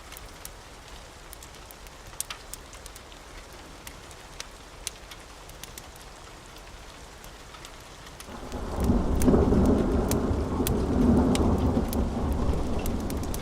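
Steady rain with scattered sharp crackles from a wood fire, then about two-thirds of the way in a loud, low roll of thunder swells up and keeps rumbling.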